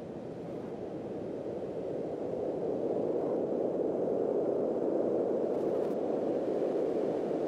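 A steady rushing noise with no distinct tone, swelling gradually louder over the first few seconds and then holding.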